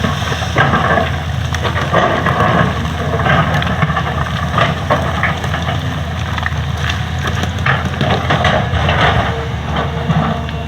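Excavator's diesel engine running steadily under load, with irregular knocks and scrapes as the machine digs up the old road surface.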